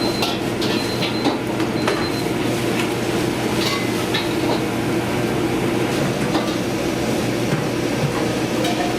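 Commercial kitchen noise: a steady loud roar, such as a gas burner or exhaust hood, with scattered clatter and clinks of metal cookware.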